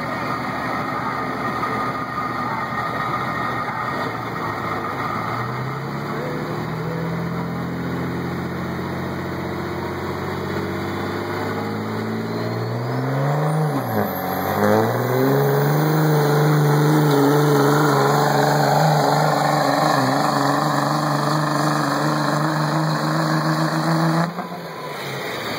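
Cummins inline-six turbo-diesel truck engine under full load in a truck pull: revs climb steadily, drop sharply about halfway (a gear change) and climb again, then hold high and loud before cutting off abruptly near the end.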